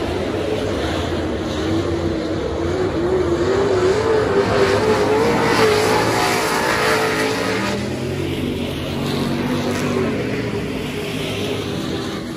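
Super stock dirt-track race car engine running hard, its pitch climbing and wavering as it accelerates and growing loudest about halfway through. A second, lower engine note rises near the end.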